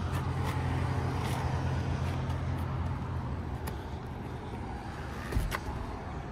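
Jaguar XJS engine idling as a steady low hum that weakens a little past halfway, with a few light clicks and a short thump near the end.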